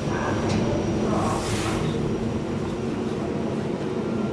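Elevator car running upward, a steady mechanical hum and rumble in the cabin, with a brief hiss about one and a half seconds in.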